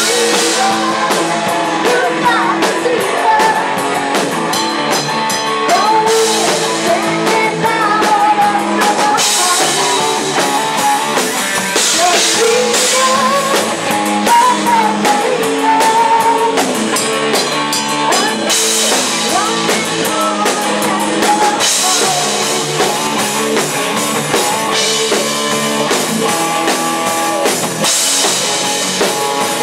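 A rock band playing with drum kit, electric guitars and bass; gliding melodic lines run over a steady beat.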